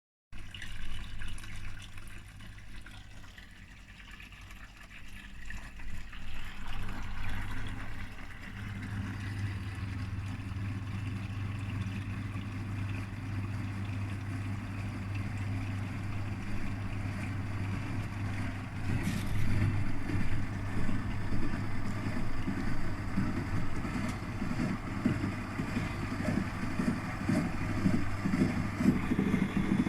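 Washing machine running: water gurgling as it fills, then a steady motor hum from about eight seconds in, which turns into a rhythmic pulsing surge over the last ten seconds as the drum turns.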